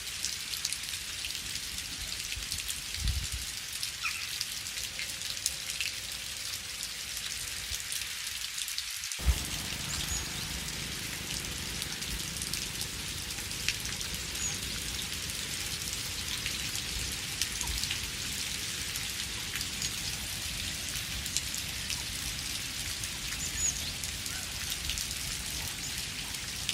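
Steady rain falling: an even hiss with individual drops ticking through it. About nine seconds in the low part of the sound briefly drops out, followed by one louder drop.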